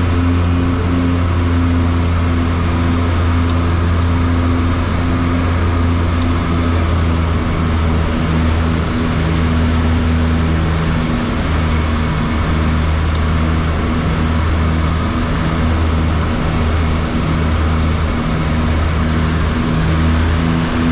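Steady engine drone inside a moving craft: a loud low hum with steady tones above it, and a faint high whine that dips in pitch about a third of the way in, then rises again.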